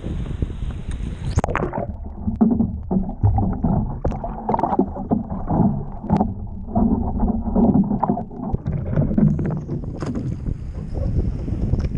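Water sloshing and splashing around a surf ski paddled in rough, wind-blown seas, with wind buffeting the microphone. For most of the stretch the sound turns muffled and gurgling, as if water is washing over the microphone, and the wind hiss comes back near the end.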